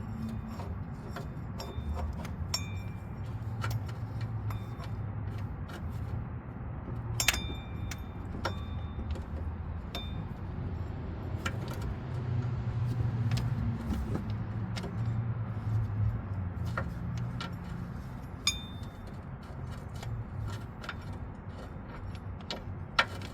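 Metal hand tools clinking and tapping against engine parts: scattered sharp clicks, a few with a short metallic ring, over a steady low rumble.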